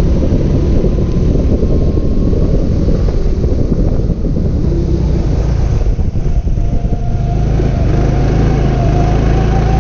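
Go-kart engine heard onboard over a heavy low rumble of wind and vibration. The engine note eases and dips through the middle, as when the driver lifts for a corner, then rises steadily near the end as the kart accelerates.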